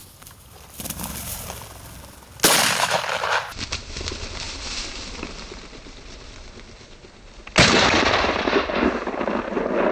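Two shotgun shots at a flushed quail, one about two and a half seconds in and the second about five seconds later, each followed by a noisy tail that lasts a second or two.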